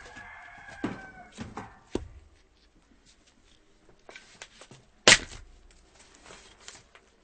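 Axe chopping firewood: a few knocks of wood within the first two seconds, then one loud axe strike about five seconds in, with lighter clatter of wood between. A short squeak in the first second, like splitting wood creaking.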